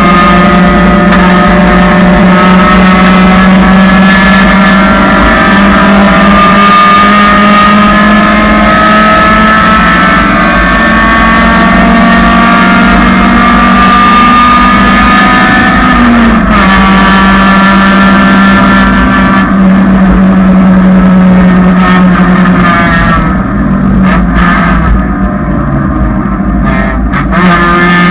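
1999 Honda Civic's four-cylinder engine pulling hard at full throttle, revs climbing slowly through a gear with a shift about 16 seconds in. Near the end the throttle comes off briefly, the engine note drops and quietens, then it picks up again.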